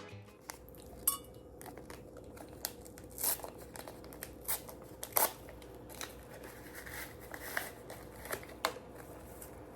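Scissors snipping with paper crinkling: a dozen or so irregular sharp snips and rustles, with a faint steady hum underneath.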